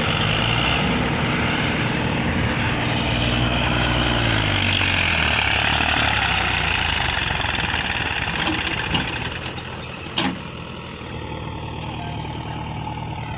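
Massey Ferguson 7250 tractor's diesel engine running hard, its pitch falling about four to five seconds in as the revs drop, then running more quietly. A sharp click about ten seconds in.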